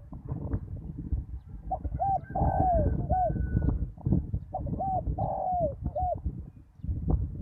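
Spotted dove cooing twice, each phrase a short note, a longer falling note and another short note, over a constant low rumble.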